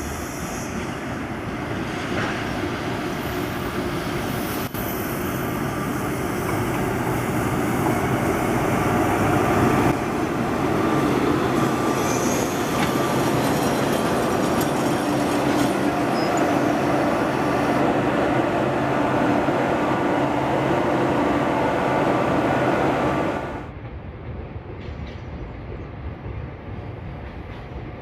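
Freight train hauled by an ED76 electric locomotive rolling through the station on arrival: continuous wheel-on-rail noise from the freight wagons with a steady electric hum underneath, growing louder over the first ten seconds. The noise drops off sharply about 23 seconds in.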